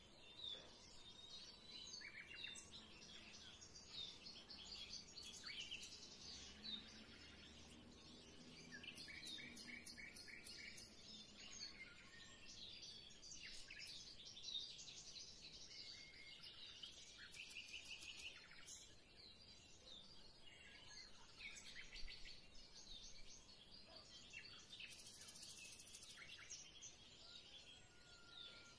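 Faint chirping and trilling of small birds, short calls following one another throughout.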